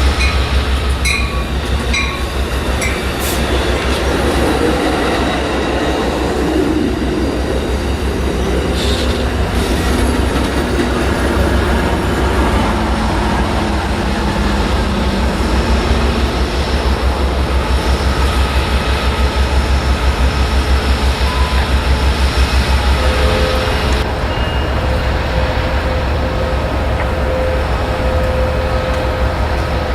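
Train passing close by: a steady, heavy low rumble with the wheels clicking rhythmically over the rail joints, and a few sharp clicks near the start.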